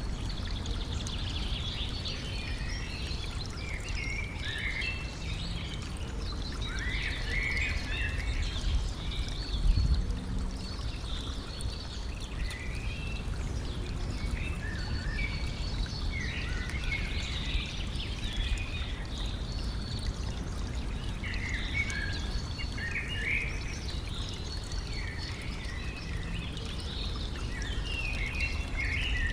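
Stream water running steadily while small birds sing and call on and off throughout. There is one brief low thump about ten seconds in.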